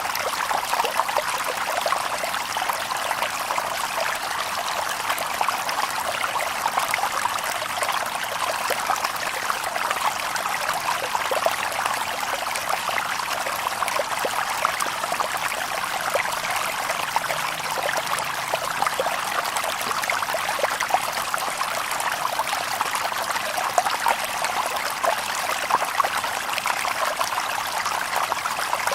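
Shallow river water babbling steadily over stones, a continuous splashing trickle with no birdsong.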